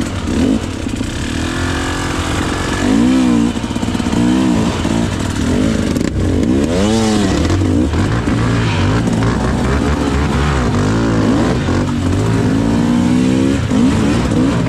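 KTM EXC 300 two-stroke dirt bike engine being ridden hard, its pitch rising and falling again and again as the throttle is opened and shut, with several sharp revs about three, four, seven and thirteen seconds in.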